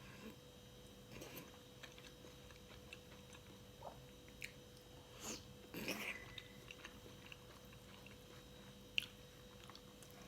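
Close-miked chewing and biting of food, with scattered soft crunches and mouth clicks every second or so.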